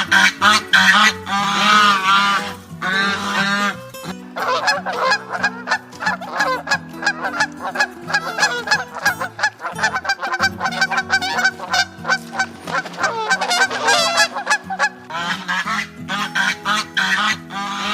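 Geese honking over and over, several calling over one another, with background music underneath.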